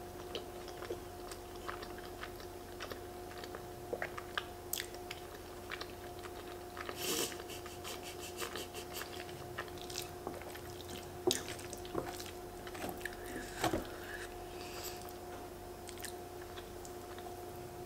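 Close-miked chewing of creamy fettuccine alfredo, with scattered soft mouth noises and light clicks of a metal fork and wooden spoon in the pasta. A faint steady hum sits under it throughout.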